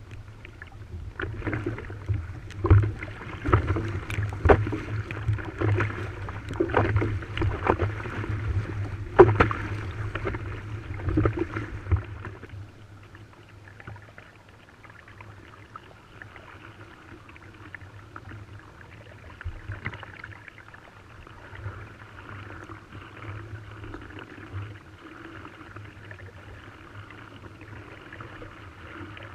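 Water rushing and splashing along the hull of a sailing outrigger canoe (proa), with wind rumbling on the microphone. For about the first twelve seconds it is rough, with many sharp slaps and knocks. After that it settles to a quieter, steadier wash.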